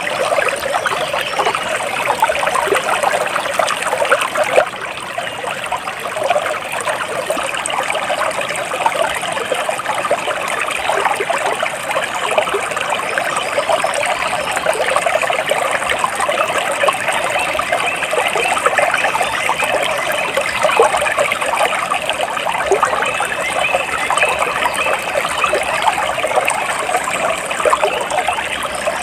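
Stream of water trickling steadily, a dense, even splashing and gurgling.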